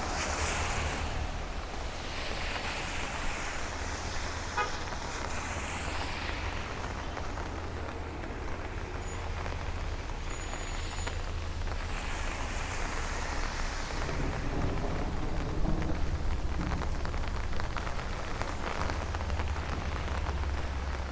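Cars passing on a rain-wet avenue, their tyres hissing in slow swells, over steady rain and a low rumble.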